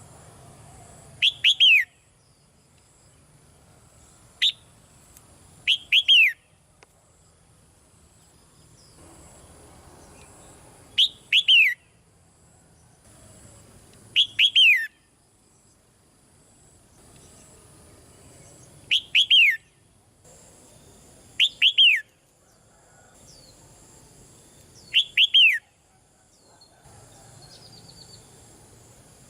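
Red-whiskered bulbul calling: short, loud phrases of two or three quick down-slurred whistled notes, repeated about eight times at intervals of a few seconds.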